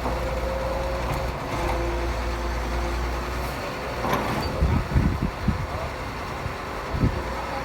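Heavy construction machinery running with a steady low engine rumble, then a run of knocks and thumps a little past the middle and one more thump near the end.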